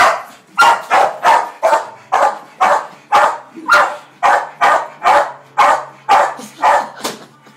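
Australian Shepherd barking over and over, about sixteen sharp barks at roughly two a second, stopping shortly before the end.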